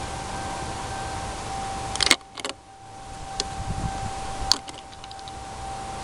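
Lexus SC power steering pump giving a steady high whine over the running engine, the noise of a failing pump. Sharp clicks about two seconds in and again near four and a half seconds, with light rattling between them.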